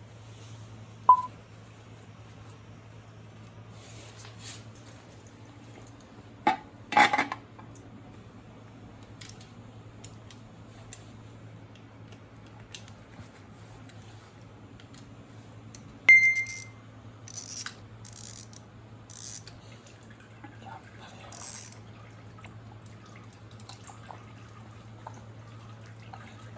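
Metal tools and small parts clinking and tapping now and then during a motorcycle oil and filter change: a sharp ringing clink about a second in, a few knocks around seven seconds, and a loud clink with a short ring near the middle followed by a run of smaller clatters, over a steady low hum.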